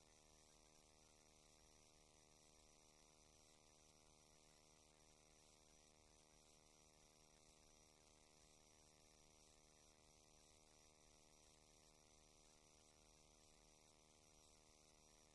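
Near silence: a faint, steady electrical hum with light hiss, with the microphone switched off.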